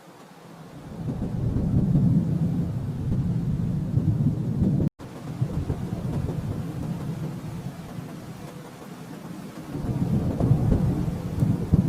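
Rolling thunder rumbling low. It swells about a second in, eases off, and builds again near the end, broken by a split-second gap about five seconds in.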